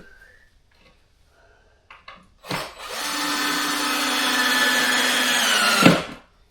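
Cordless drill-driver running steadily for about three seconds, driving a screw through old floorboards into a joist to stop them creaking. It stops with a sharp knock, after a few light knocks before it starts.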